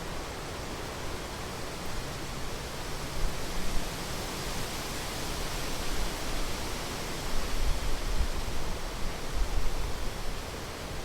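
Rhine Falls waterfall: a steady, dense rush of falling water, with bursts of low rumble in the second half.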